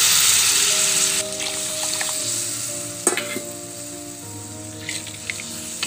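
Water hitting hot fried masala in a kadhai sizzles loudly, the sizzle dying down to a quieter simmer after about a second. Background music plays under it.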